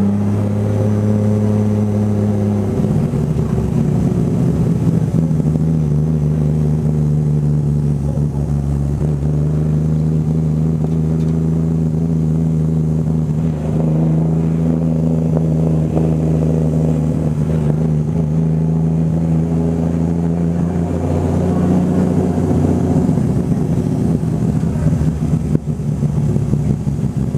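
Car engine running at a steady speed, its note holding level for long stretches, dropping in pitch about three seconds in and rising again near the end.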